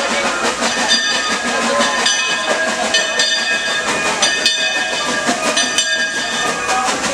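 Steam train running, a steady rumble and hiss with several high-pitched steady tones that fade in and out every couple of seconds.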